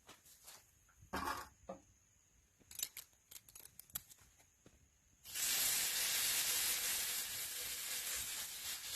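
A few light clicks and knocks of handling, then about five seconds in food goes into a hot pan and starts sizzling loudly, frying steadily from then on.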